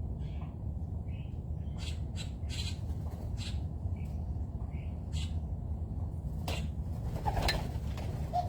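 Wild birds calling, with scattered short chirps and a louder squawk about seven seconds in, over a steady low rumble.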